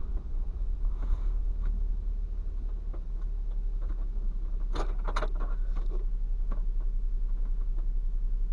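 Steady low rumble of an idling vehicle engine heard from inside the vehicle, with a few sharp clicks and rustles of handling about five seconds in.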